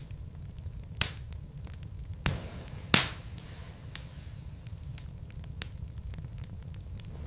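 Wood fire burning in a fireplace: a steady low rumble with scattered crackles and a few sharp pops from the burning logs, the loudest about three seconds in.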